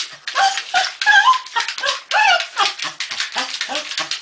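A dog whining and yipping in short calls that rise and fall in pitch, over a fast run of short puffs or clicks, about five a second.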